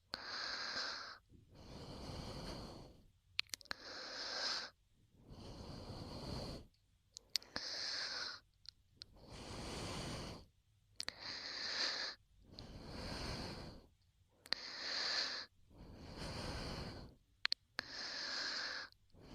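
Slow, close-miked breaths into a binaural ASMR microphone: a shorter hissing breath followed by a longer, fuller one, repeating about every three seconds, with small wet mouth clicks in the pauses.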